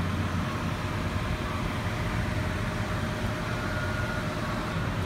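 Car engine idling: a steady low hum with a faint constant whine over it.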